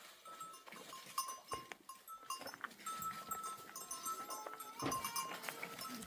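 A flock of goats and sheep with neck bells, the bells clinking and ringing on and off as the animals move.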